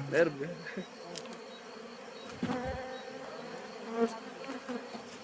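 Honey bees buzzing around an opened hive, with a few light knocks.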